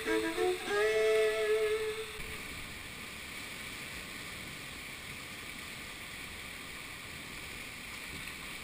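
The last held notes of background music end about two seconds in, leaving a steady rushing of river water.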